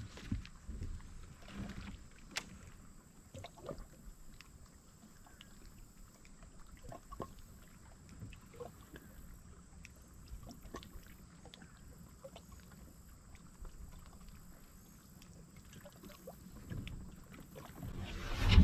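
Scattered small clicks and knocks of gear being handled aboard a kayak over faint low water and wind noise. A louder low rumble builds near the end.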